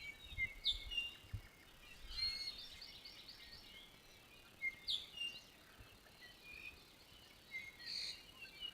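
A chorus of Hawaiian native forest birds (ʻapapane, ʻiʻiwi, ʻōmaʻo and ʻamakihi) chirping, whistling and singing over one another. A quick run of repeated notes comes about two seconds in.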